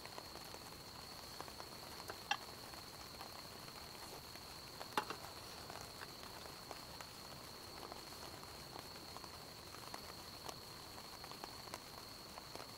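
Wood campfire crackling softly with scattered small snaps and two sharper pops, one a couple of seconds in and one about five seconds in, over a faint steady high-pitched whine.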